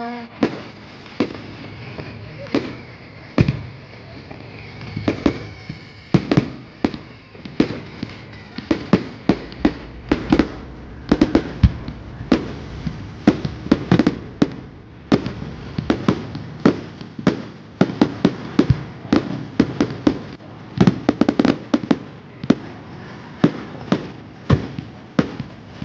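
Fireworks display going off: a steady string of sharp bangs and cracks, scattered at first and coming thick and fast from about a third of the way in.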